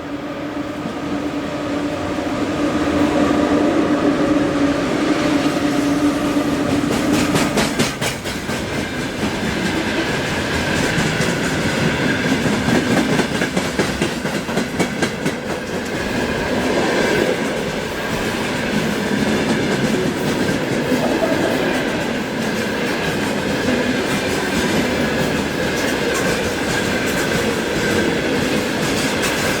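Freight train wagons rolling past, wheels clattering rhythmically over the rail joints. A steady hum sounds for the first several seconds before the clatter takes over.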